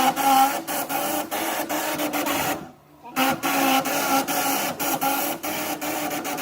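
A machine running with a steady whirring hum. It cuts out for about half a second near the middle, then starts again.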